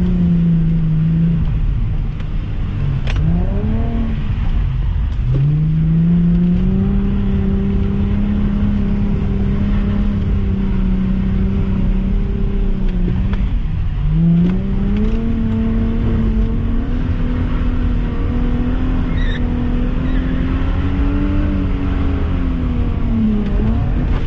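Nissan V35 Skyline 350GT's 3.5-litre V6, heard from inside the cabin, revving hard and held at steady high revs through long slides on the throttle. The revs dip and climb again a few times, once around two to five seconds in and once around fourteen seconds in, and drop away near the end.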